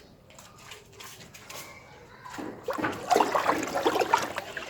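Lime whitewash being stirred in a container: liquid sloshing and splashing in quick, irregular strokes, starting about halfway through after a quieter stretch.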